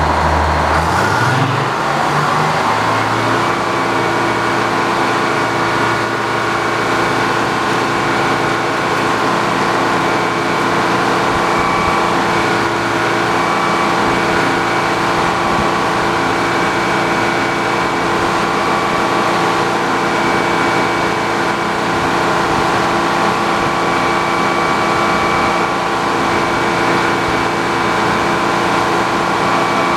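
A 70-year-old sawmill running: its engine-driven saw rises in pitch over the first few seconds, then runs at a steady speed for the rest of the time.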